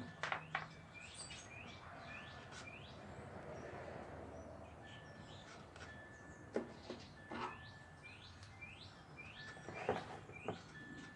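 Birds chirping over and over in short rising calls, with a few sharp clicks and knocks, about four in all.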